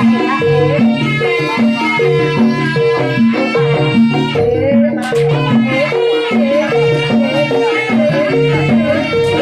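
Javanese traditional performance music: low pitched notes repeating in a steady rhythm, with a melody line wavering above them.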